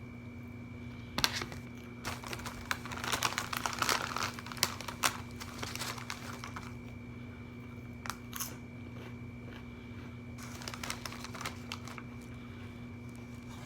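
Food packaging crinkling and rustling in bursts: a long stretch of handling early on, then a short burst and another spell a few seconds later, over a steady faint hum.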